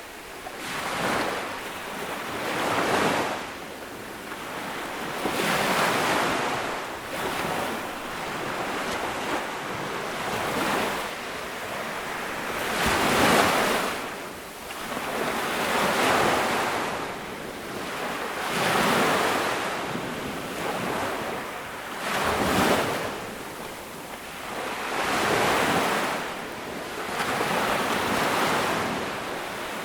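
Ocean waves breaking and washing onto a beach, each surge swelling and fading about every two to three seconds.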